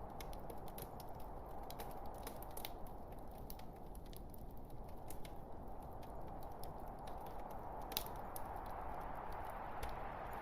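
Wood log fire burning: a steady hiss of flame with scattered sharp crackles and pops, one louder pop about eight seconds in.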